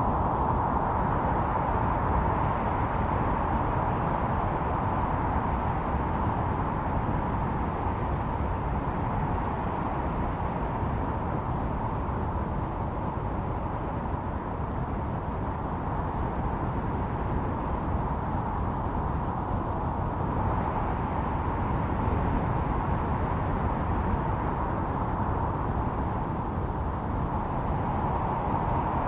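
Blizzard wind howling: a steady rushing noise with a whistling tone that swells in slow gusts, strongest near the start, in the middle and near the end.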